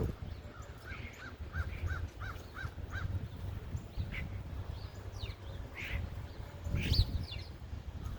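Wild birds calling outdoors: a quick run of about eight short, evenly spaced notes in the first few seconds, scattered higher chirps, and a louder call about seven seconds in.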